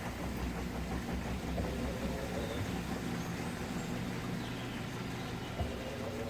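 Midea Wave-Agitator top-load washing machine running mid-cycle: a steady mechanical hum, with a short click about five and a half seconds in.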